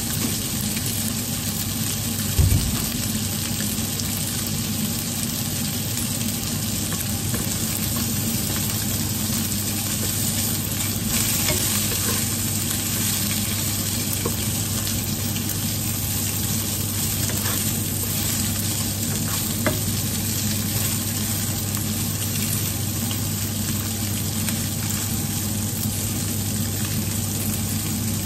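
Tofu puffs stuffed with minced fish sizzling as they fry in a ceramic-coated wok, with a wooden spatula stirring and scraping them against the pan. A steady low hum runs underneath, and there is one low thump about two and a half seconds in.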